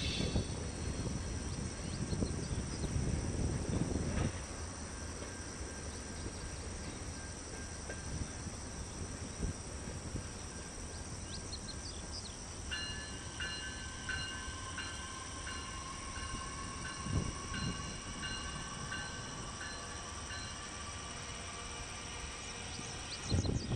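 Bilevel commuter train rolling past at a distance, a steady rumble of wheels on rail that is loudest in the first few seconds and then eases off. From about halfway in, a faint high tone repeats on and off.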